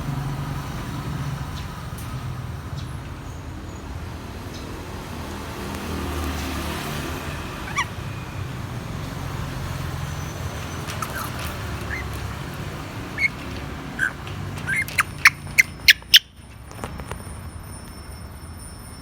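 Grey parrot giving a few short chirps, then a quick run of five or six sharp clicks about fifteen seconds in, over a steady low rumble.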